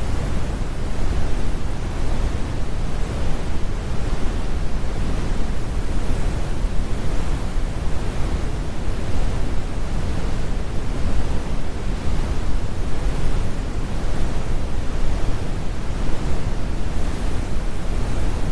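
Steady synthetic brown noise: an even, deep rumbling hiss with most of its weight in the bass and the high frequencies rolled off, unchanging throughout.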